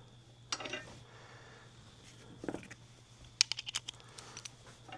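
Small metal suspension hardware and hand tools being handled: a couple of light knocks, then a quick run of sharp clicks a little past three seconds in.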